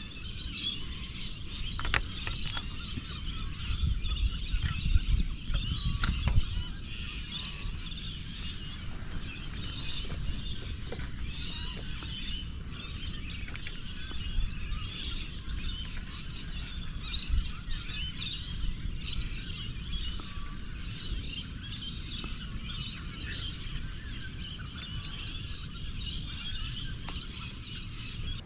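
Many birds chirping and calling at once in a dense, steady chorus, over a low rumble.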